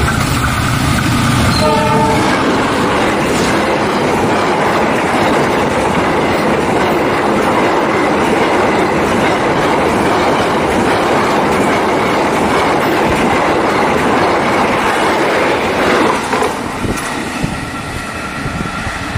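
A diesel locomotive hauling a passenger train gives a short horn blast about two seconds in, then passes close by with loud, steady engine and wheel noise. Near the end the noise drops away as the last coach goes past and recedes.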